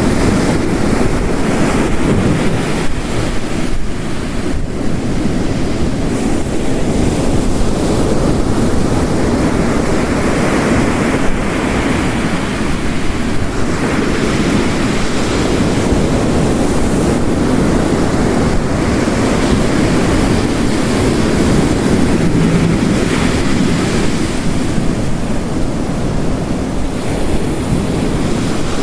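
Ocean waves crashing on a rocky coast, surging and falling in slow swells, under a steady wash of heavy rain.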